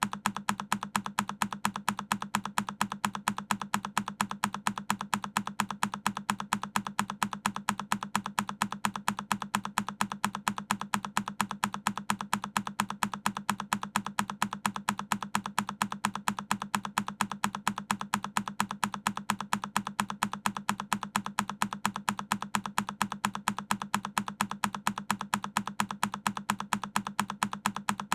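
A single key on a Keychron K10 mechanical keyboard pressed over and over, each press a sharp click, repeating at a quick, even pace.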